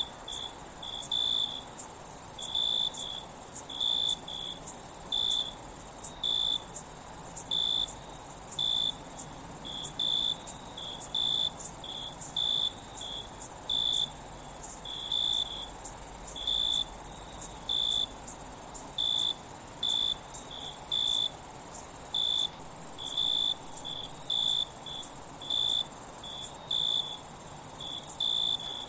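Night insects, crickets, calling: a steady high-pitched trill under short, repeated chirps at about two a second.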